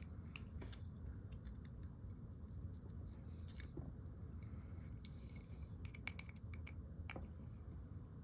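Faint, scattered small clicks and light scraping of metal fishing-reel parts being handled and worked into place.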